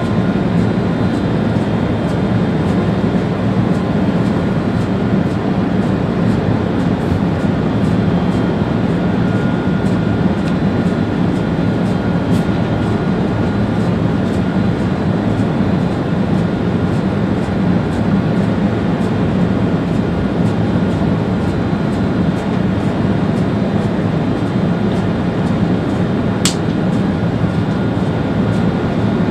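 Steady running noise of an ÖBB Railjet high-speed train heard from the driver's cab at speed, with a thin steady whine over it and one sharp click near the end.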